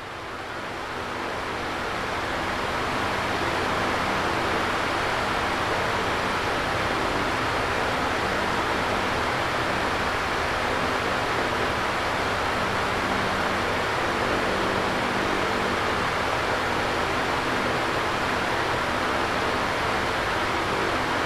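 Electric fan running: a steady rush of moving air with a faint low hum underneath, fading up over the first few seconds and then constant.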